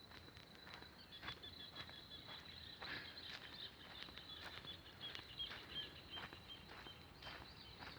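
Faint footsteps on a trail, irregular crunching steps, over a steady high insect whine. A run of short high chirps repeats from about a second in until near the end.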